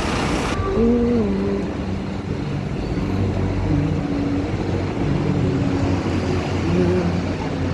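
Steady low rumble of a vehicle's engine, with a few faint held tones over it. The high end drops away suddenly about half a second in.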